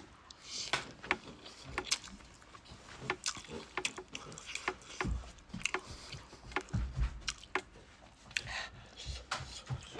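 A person eating noodles close to the microphone: chewing and slurping, with irregular small wet clicks and a few low thumps about halfway through.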